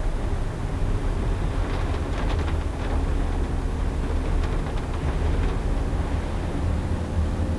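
Car driving on a rain-soaked road: a steady low rumble of engine and road noise, with short bursts of water hiss about two seconds in and again around five seconds in.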